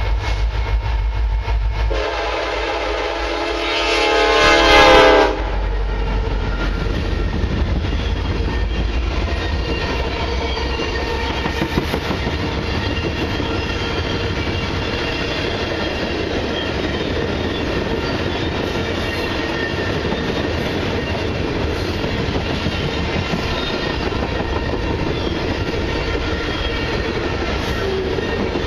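A freight diesel locomotive's deep rumble, then its Nathan K5LLA air horn sounds one long blast about two seconds in, growing louder and cutting off sharply about three seconds later. The long train's freight cars then roll past with a steady rumble and wheel clatter over the rail joints.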